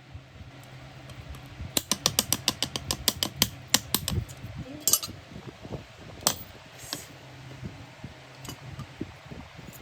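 A quick run of sharp clicks or light taps, about a dozen in two seconds, then a few scattered ones, over a steady low hum.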